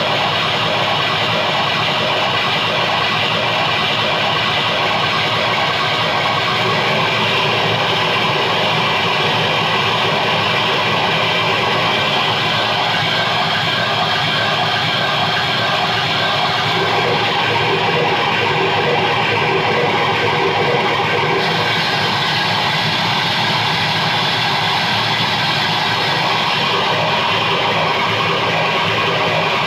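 Electronic keyboard played live through a guitar amplifier: a loud, steady wash of noisy sound with faint held tones and no beat.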